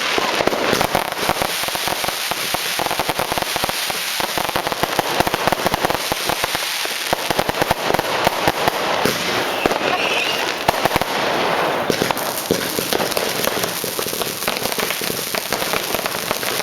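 Many fireworks and firecrackers going off at once in a dense, continuous crackle of bangs and pops with no pause.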